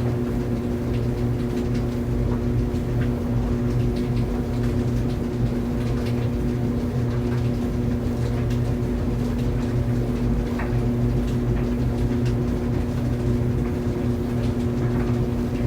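Laundry dryer running steadily: a constant motor hum with a drum rumble, and faint light ticks scattered throughout.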